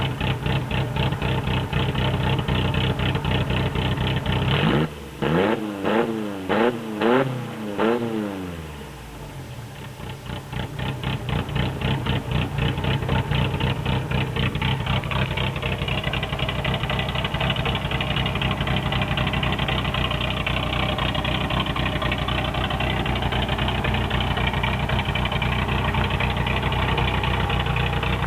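1984 Toyota pickup's 22R four-cylinder engine idling through a Cherry Bomb muffler, revved about four times in quick succession around five seconds in, then settling back to a steady idle.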